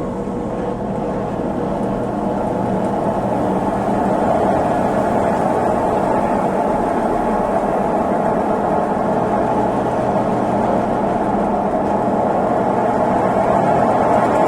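Consul Facilite 11 kg washing machine starting its spin cycle: a steady motor hum and rushing drum noise that grows gradually louder as the drum speeds up, with a tone creeping slightly higher near the end.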